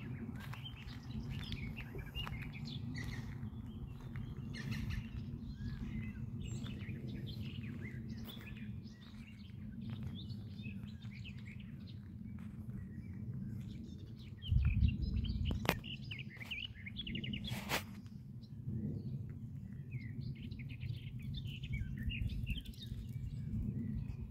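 Several songbirds singing and chirping over a steady low rumble on the microphone. About two-thirds of the way through there is a brief loud low thump, then two sharp clicks.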